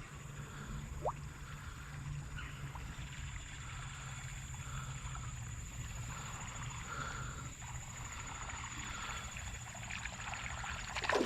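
Creek water trickling and rushing over a riffle, a steady running-water sound with a thin steady high tone above it. Near the end comes a short, sharp rising swish.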